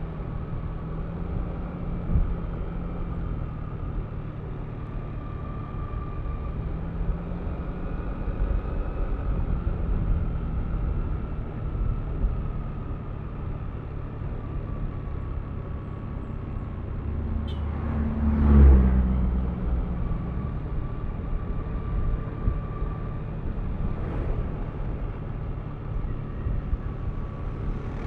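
Yamaha Aerox V3 scooter's 155 cc single-cylinder engine running on the move, its pitch shifting slowly, with wind and road noise. There is a louder swell about two-thirds of the way through.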